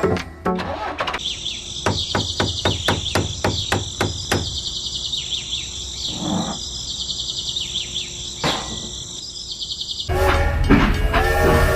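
Steady high-pitched chirping of insects and birds, with a run of sharp knocks at about three a second in the first half. Music comes in near the end.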